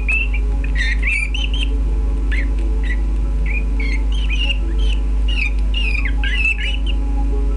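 Canaries chirping and twittering in short, quick notes that bend up and down. A steady low hum runs underneath.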